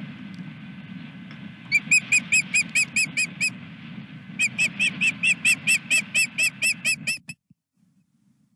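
Osprey calling in two runs of short, sharp whistled chirps, about five a second, the first about nine notes and the second about fourteen, over steady wind noise on the microphone. All sound cuts off abruptly near the end.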